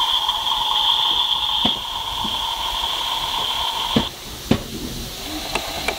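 CAT Big Builder remote-control toy backhoe giving off a steady high whine that stops about four seconds in, followed by a few sharp plastic clicks.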